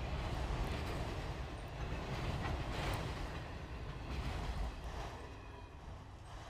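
Freight train's autorack cars rolling past with a steady rumble and wheels clicking over the rail joints, fading as the end of the train goes by.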